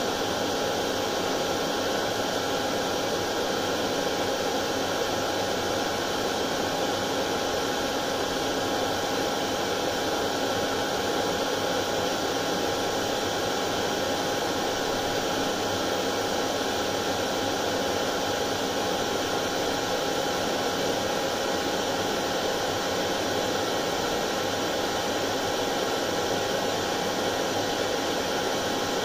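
Hair dryer running steadily: an even rushing hiss of air with a constant motor whine.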